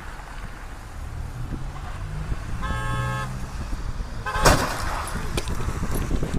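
Car driving with steady road noise; a horn sounds once briefly about three seconds in, then about a second and a half later comes a loud sudden bang of a collision, followed by a few smaller knocks.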